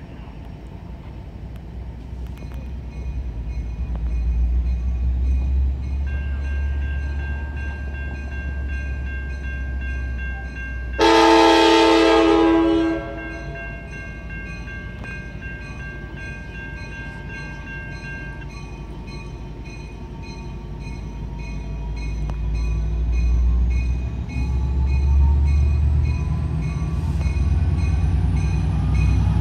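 Approaching Amtrak passenger train: the diesel locomotive's low rumble builds as it nears, with one loud, long horn blast of about two seconds some eleven seconds in.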